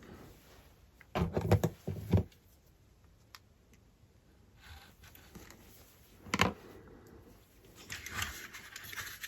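Small handling sounds at a model-building workbench: a cluster of rustles and clicks about a second in, one sharp click a little past the middle, and more rustling near the end, as a thin vinyl tube and measuring tool are handled.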